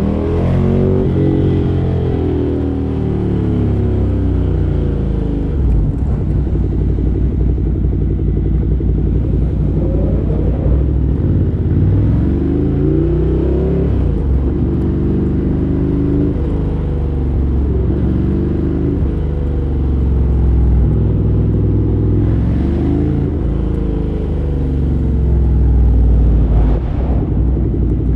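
2017 Ducati Monster 797's air-cooled L-twin running through a LeoVince LV-10 exhaust while riding: the engine note rises several times as it accelerates through the gears, then drops back as the throttle eases off.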